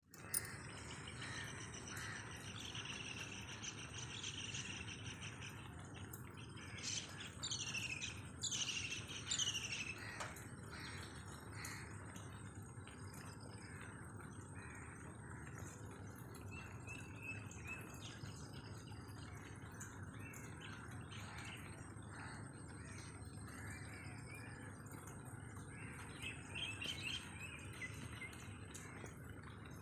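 Birds calling and chirping in a natural outdoor morning soundscape, with a run of louder falling calls about a quarter of the way in and more chirps near the end. A steady high-pitched tone and a low background hum run underneath.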